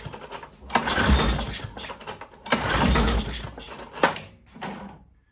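Lawn mower's small engine being pull-started: three hard pulls of about a second each, then a couple of short tugs, the engine turning over without catching. It has spark and fuel but won't run, and the owner suspects it is flooded.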